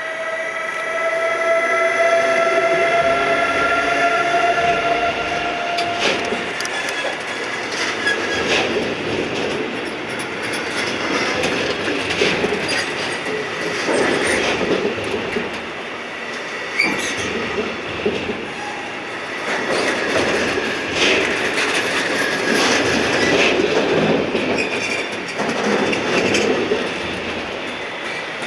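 A train running through the station: a slightly falling whine for the first few seconds, then wheels clattering over rail joints in repeated groups of knocks along with the rush of the passing cars.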